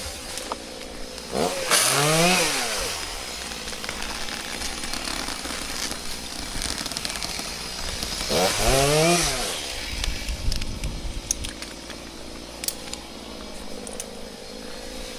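Chainsaw revved up twice and let back down, each rev rising and falling in pitch over about a second, about seven seconds apart.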